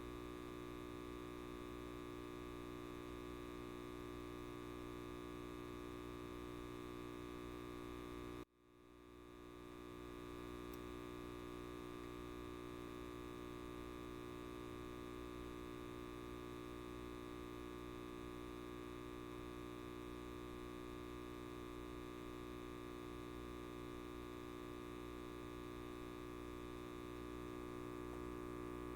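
Steady electrical buzz of a light bulb: a constant hum made of many fixed tones. About eight seconds in it cuts out suddenly and swells back over a second or two, then holds steady again.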